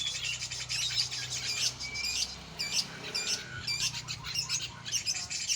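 Cucak jenggot (grey-cheeked bulbul) singing a rapid, varied run of chirps and short whistled notes.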